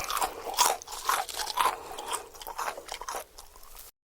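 Crunchy food being chewed close to the microphone, with sharp, regular crunches about two a second, cutting off suddenly near the end.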